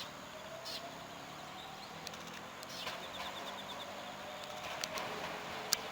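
Faint electric whine of an Osaka Metro 66 series train's VVVF inverter drive as it pulls away, the tone climbing at first and then slowly sinking, with scattered light clicks.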